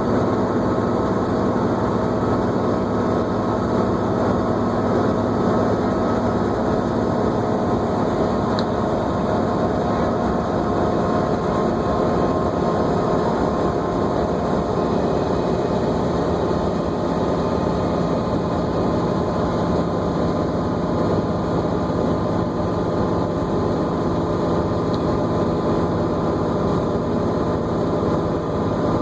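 New Flyer D40LFR diesel transit bus under way, heard from inside: steady engine and road noise with a faint high whine held over it.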